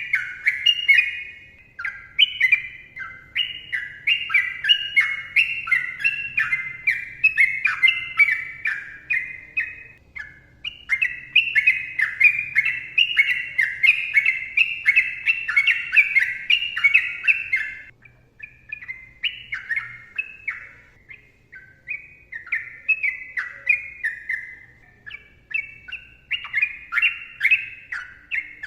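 Sooty-headed bulbul (trucukan) singing a long, rapid run of quick slurred whistled notes, with brief pauses about ten and eighteen seconds in.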